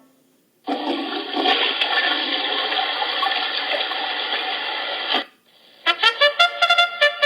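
Toilet flush sound effect, a thin rushing of water with no bass that runs about four and a half seconds and cuts off abruptly. Near the end a trumpet fanfare of quick staccato notes begins.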